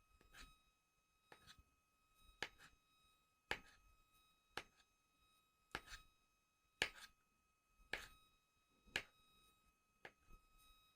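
Knife slicing through a banana and tapping the plastic cutting board beneath, about ten light knocks at roughly one a second. A faint steady high tone hums underneath.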